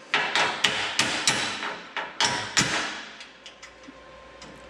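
Sharp metal knocks and clanks from the steel gate and latch of a lift's fall-protection cage being worked. About five quick hits come in the first second and a half and two more near the middle, then lighter ticks.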